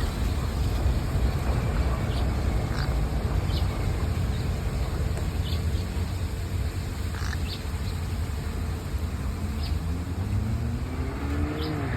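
Outdoor trail ambience: wind rumbling on the microphone, with short faint bird chirps scattered through it. From about nine seconds in, a rising engine hum builds, like a vehicle passing.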